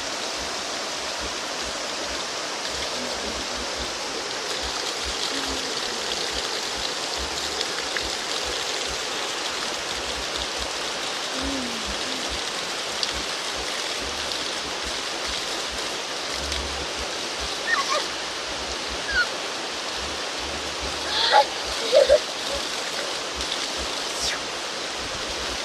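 Waterfall water rushing steadily, with a few brief distant shouts in the second half.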